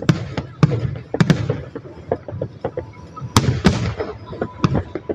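Aerial fireworks bursting: a quick run of booms and pops, with crackling trailing the bigger bursts about a second in and again past three seconds.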